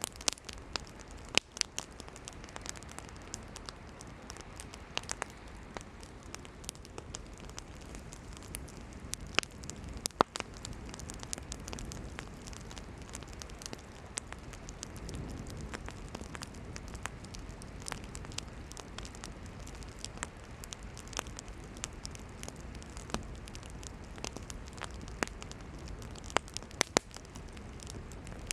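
Campfire of burning firewood crackling: sharp pops and snaps at irregular intervals over a steady soft rushing hiss, with the loudest pops about ten seconds in.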